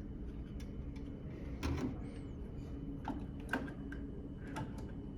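Scattered sharp clicks and small metallic knocks from handling the fittings and plug at a furnace gas valve's pressure test port, over a steady background hum.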